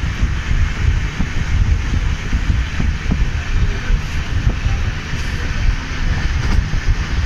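Wind buffeting the phone's microphone on a moving passenger train, over the steady running rumble of the coaches on the track.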